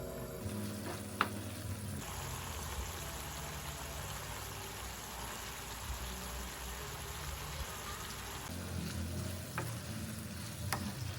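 Food sizzling as it fries in a pan. The hiss starts suddenly about two seconds in and cuts off sharply near the end, with a couple of sharp clicks.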